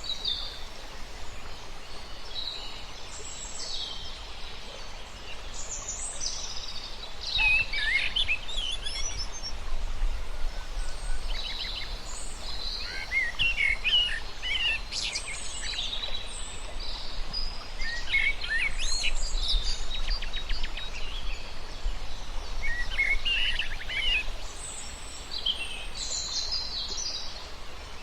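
Several birds chirping and calling, with short whistled notes and quick trills overlapping throughout, over a steady low outdoor rumble.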